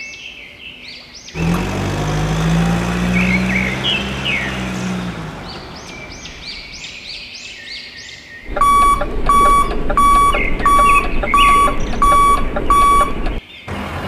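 Electronic beeping, about seven even beeps less than two a second, in the second half, over bird chirping. Earlier comes a low droning tone lasting a few seconds.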